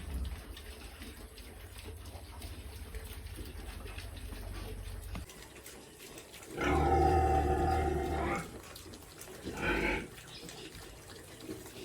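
An animal call with many overtones, about two seconds long, followed by a shorter call a second later, over a low hum that stops about five seconds in.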